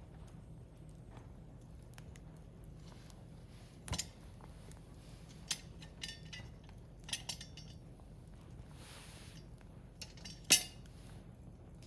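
Firewood burning in a Picogrill fire pit, crackling with scattered sharp pops and a brief soft hiss; the loudest pop comes about ten and a half seconds in.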